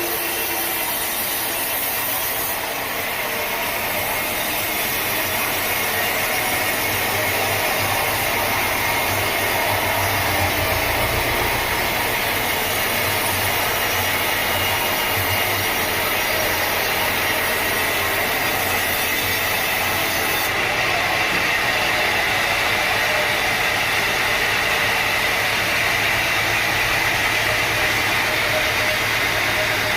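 Sawmill machinery running steadily, a continuous mechanical drone with a low hum underneath.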